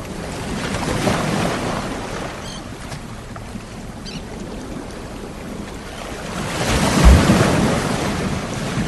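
Sea waves washing ashore: two waves swell and break, about a second in and again around seven seconds in, the second louder with a low thump as it breaks.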